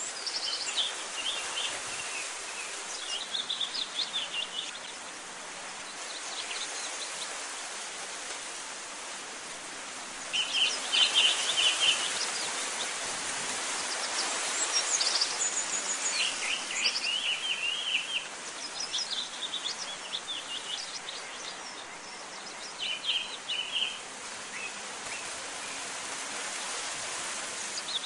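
Small birds chirping in short bursts of quick, high notes every few seconds over a steady outdoor hiss.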